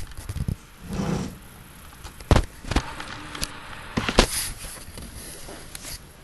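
A few sharp knocks and clicks at irregular intervals over a faint noisy background, with a short low hum about a second in.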